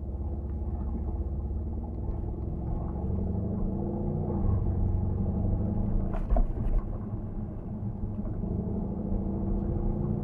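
Mercedes-AMG C63 S (W205) 4.0-litre twin-turbo V8 running through its stock exhaust while driving; the engine note rises for a couple of seconds around three to four seconds in, then drops back. A brief sharp knock sounds a little past the middle.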